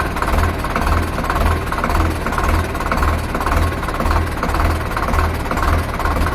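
Sonalika 750 tractor's diesel engine running steadily at low revs, with a regular pulsing beat about twice a second.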